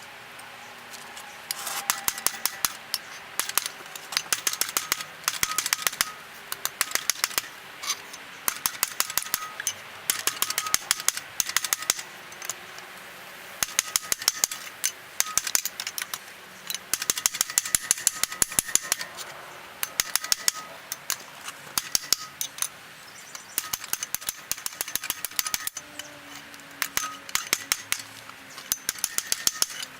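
Hammer blows on rebar at the anvil, the metal ringing with each strike. The blows come rapidly in bursts of a second or two, with short pauses between, as the spoon blank is squared up and shaped.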